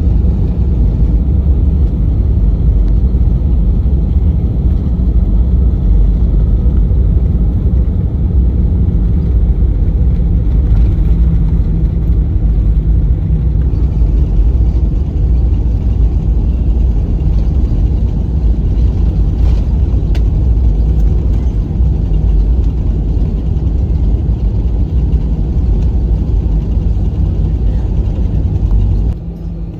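Airbus A320 cabin noise: a loud, steady low rumble of engines and airflow, dropping off sharply about a second before the end.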